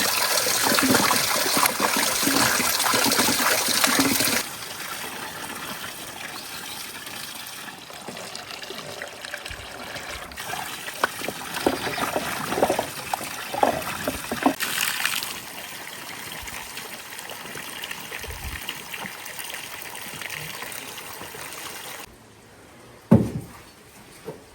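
Water running strongly for about four seconds, then a quieter trickle with a scatter of light knocks, and one sharp knock near the end.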